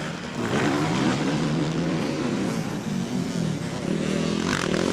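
Several motocross bikes racing, their engines revving up and down and overlapping as they go through the gears.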